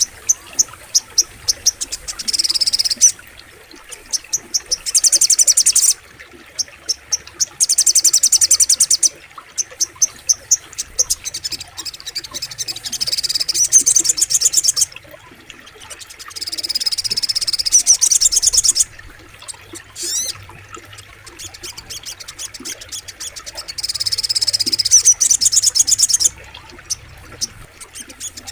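Sogok ontong bird singing: rapid, high, buzzy trills repeated in bursts of one to three seconds, with runs of sharp separate chips between the bursts.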